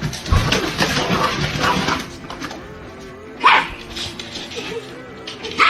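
A dog barking over background music, with one sharp bark standing out about three and a half seconds in.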